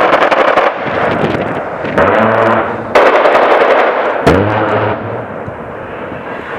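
A-10's GAU-8 30 mm rotary cannon firing four short bursts, each a loud, fast, buzzing rattle, over jet engine noise.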